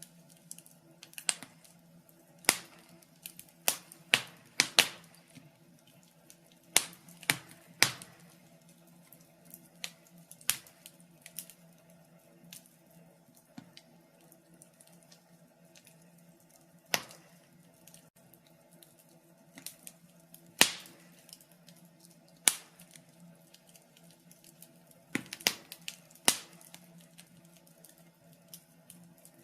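Wood fire crackling in a fireplace: sharp, irregular pops and snaps, sometimes a few in quick succession, then several quiet seconds, over a faint steady hum.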